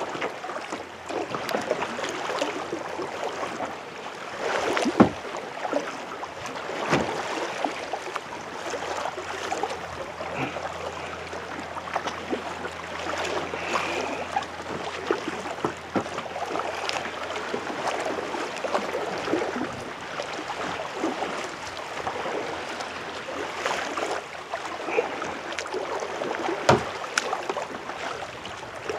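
Kayak paddle dipping and stroking through the water, with splashing and dripping off the blades and a few louder splashes.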